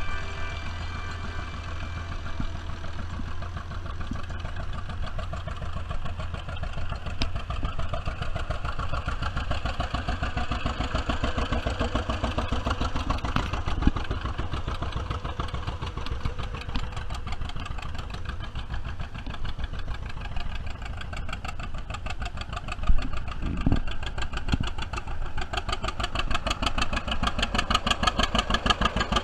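Vintage farm tractor engine running with an even, rhythmic exhaust beat, getting louder near the end. A single knock sounds about three-quarters of the way through.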